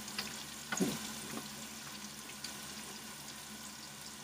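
Food frying in a pan on the stove: a steady sizzling hiss, with one light knock about a second in.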